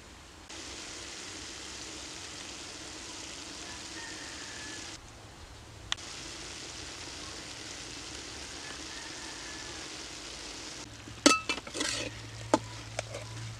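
Pork, tomato and pepper slices sizzling steadily in a steel wok, with a short break about five seconds in. Near the end a metal spatula scrapes and clanks against the wok as the food is stirred.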